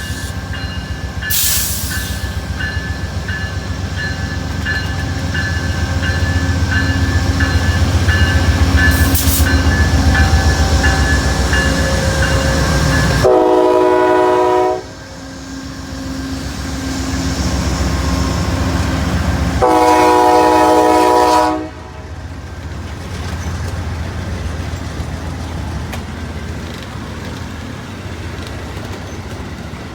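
Amtrak Downeaster passenger train running with a low throbbing rumble and a small bell dinging about twice a second, then its locomotive horn sounding two long chord blasts, about halfway through and again about two-thirds through.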